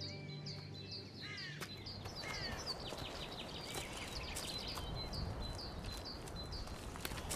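Outdoor birdsong ambience: many short high chirps repeated throughout, with a few lower sweeping calls, over a steady hiss. Soft background music fades out in the first second or so.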